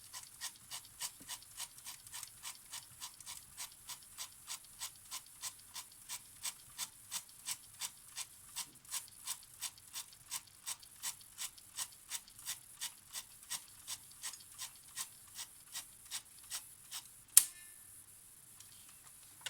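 Polaroid SLR 680 camera mechanism being cycled through, with a steady train of small clicks at about three or four a second. About seventeen seconds in it ends with one loud sharp snap as the mechanism reaches the viewing position.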